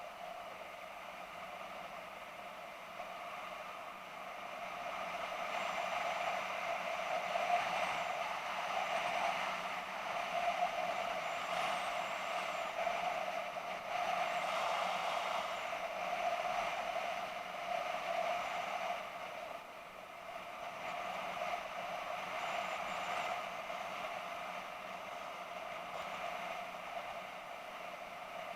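BMW F650GS motorcycle on the move, its engine and the rush of wind heard together as a steady, muffled noise. It grows louder a few seconds in and eases back about two-thirds of the way through.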